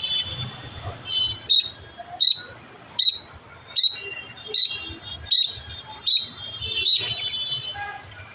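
Pet budgerigar calling: a run of eight sharp, short chirps about every 0.8 seconds, with a burst of chattering warble early on and again near the end.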